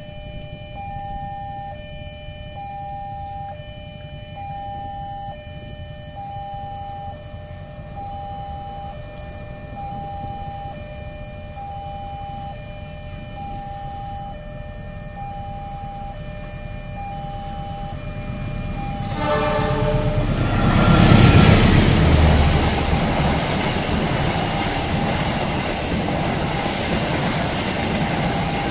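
A level crossing warning bell rings in a steady on-off pattern, about once a second. About 19 seconds in, a CC206 diesel-electric locomotive gives a short horn blast. The passenger train then passes close by, loudest just after the horn, with a rumble and the clickety-clack of wheels on the rails while the bell keeps ringing underneath.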